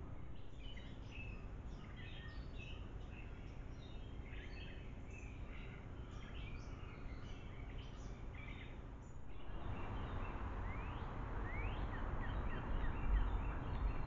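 Backyard birds singing: a busy jumble of short chirps and whistled notes for the first nine seconds or so. Then, with louder background noise, a few notes sliding upward.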